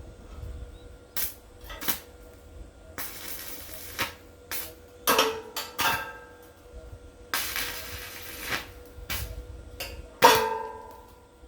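Metal parts knocking together several times, each knock followed by a short ringing tone, the loudest about ten seconds in. Two stretches of about a second of steady noise come between the knocks.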